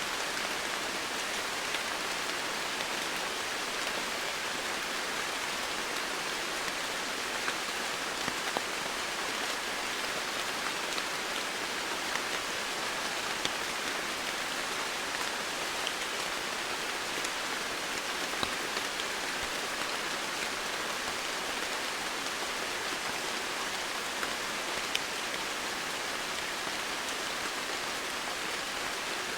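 Steady rainfall, an even hiss with scattered faint drop ticks throughout.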